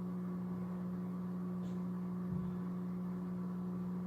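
Aquarium canister filter pump humming steadily, with a light knock about two and a half seconds in.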